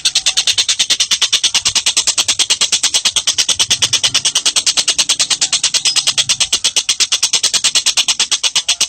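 Bird call repeating very fast and evenly, about ten shrill notes a second, in a continuous unbroken trill.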